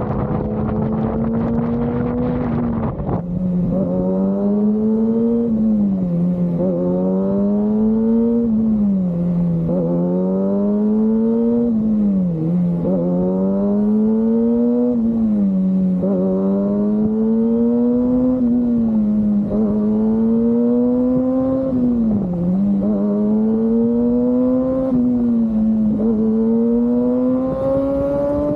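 A sport motorcycle's inline-four engine running under way. Its note climbs in pitch and then drops back sharply, over and over, every two to three seconds, with wind rushing over the microphone.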